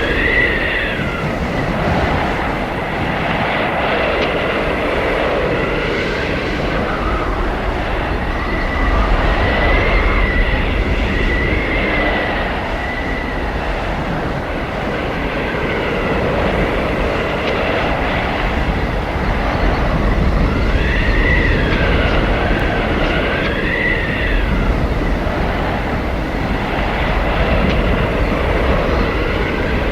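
Howling blizzard wind: a steady, loud rushing roar with high whistling howls that rise and fall in pitch, coming in waves at the start, around ten seconds in and again a little after twenty seconds in.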